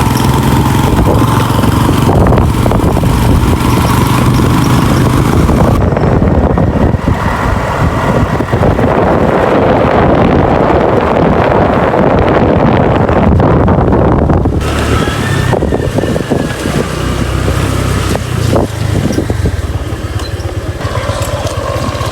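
Motor vehicle running along with steady engine and road noise, and wind buffeting the microphone, as heard while riding in it.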